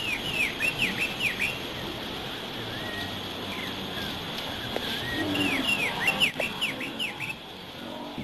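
Bird song: two runs of quick, repeated downward-sweeping whistles, one about half a second in and another about five to seven seconds in, with a few softer rising calls between them. Underneath is a steady rushing noise from the moving train.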